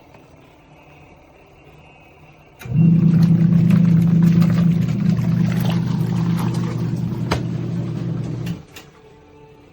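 Costway twin-tub portable washer's wash motor humming as it churns the load, in the stop-and-start pattern of a wash cycle: quiet with faint clicks for the first few seconds, then running about six seconds and cutting off again near the end.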